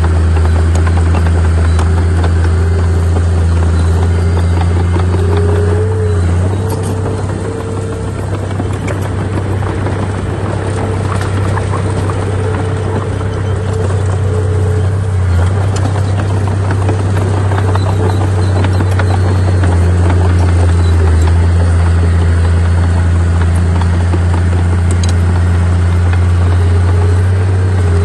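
Heavy earthmoving machinery's diesel engines running, a loud steady deep drone with a fainter higher whine above it, easing slightly about seven seconds in before picking up again.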